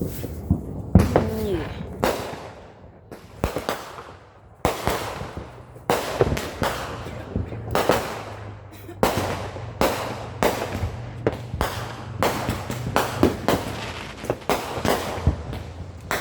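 Fireworks going off in a rapid string of sharp bangs, each trailing off in an echo, about one or two a second. There is a brief lull a few seconds in, and the bangs come closer together after that.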